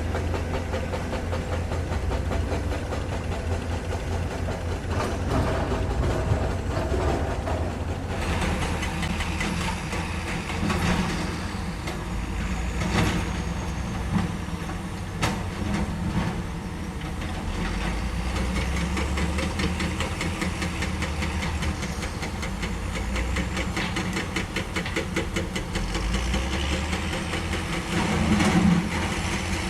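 Heavy diesel earthmoving machinery running steadily, with scattered metallic knocks and clanks and a brief swell in engine sound near the end.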